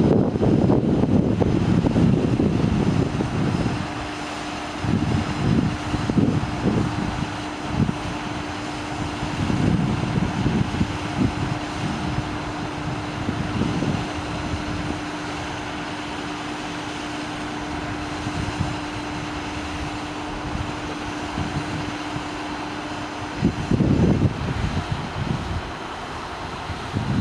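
Truck diesel engine running steadily with a held droning tone, as it would when driving the PTO hydraulics for the aerial boom. The tone stops near the end. Irregular gusts of low rumble, like wind on the microphone, come and go over it.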